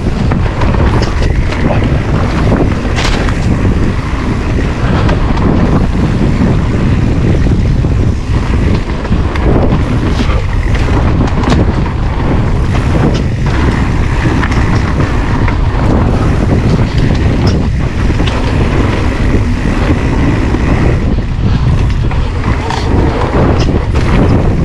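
Wind buffeting a GoPro's microphone while an electric mountain bike rides along a woodland trail, with a steady low rumble and frequent knocks and rattles from the bike over bumps.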